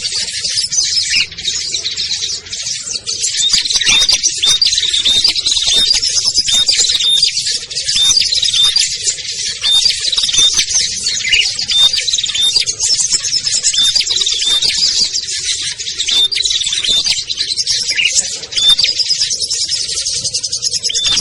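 Dense, unbroken chorus of many small songbirds chattering and chirping together, with short high notes repeating over and over. It is a lure recording built to draw small wild birds down to a trap.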